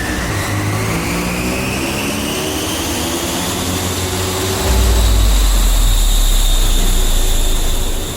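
Toyota AE86 Trueno engine running under load on a chassis dyno, its revs climbing steadily. It gets much louder about two-thirds of the way through, then dips sharply right at the end.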